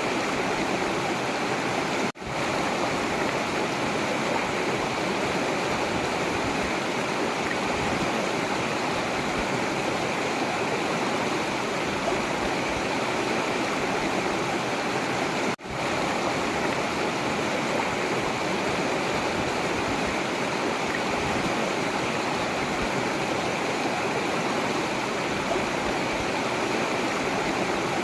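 Forest river water rushing steadily over rocks. The sound cuts out for an instant twice, about two seconds in and about fifteen seconds in.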